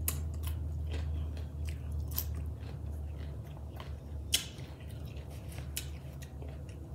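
A person chewing crunchy food close to the microphone: irregular wet crunches and mouth clicks, with one louder crunch about four seconds in, over a steady low hum.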